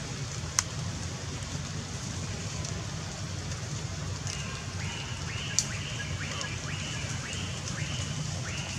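Falling raindrops after a shower: an even hiss with two sharp drips, one near the start and one about halfway. From about halfway, a high chirp repeats a little under twice a second.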